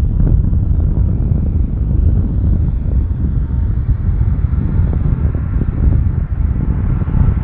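Loud rumble of a jet airliner's engines during a landing, with a faint engine whine coming in over the second half.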